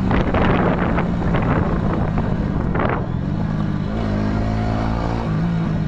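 Honda motorcycle engine running while riding at speed, with heavy wind rush; the engine note settles to a steady pitch about four seconds in and shifts again shortly after.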